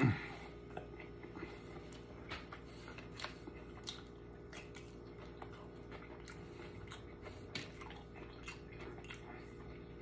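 A person chewing a mouthful of a soft bacon and mac-and-cheese burger, with small wet mouth clicks and smacks scattered throughout. A brief falling hum-like vocal sound from the eater comes at the very start and is the loudest moment.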